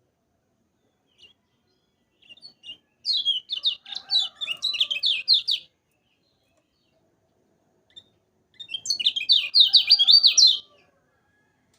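Kecial kuning (lemon-bellied white-eye) singing two bursts of rapid, high chirping notes, the first about three seconds in and the second near the end.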